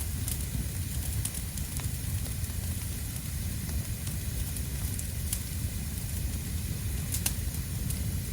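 Outdoor fire of dry fallen leaves and twigs burning steadily, with a low rumble and scattered sharp crackles and pops, one louder pop about seven seconds in.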